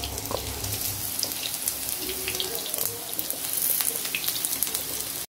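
Gram-flour pakoras frying in hot oil in a shallow pan: a steady sizzle with many fine crackles.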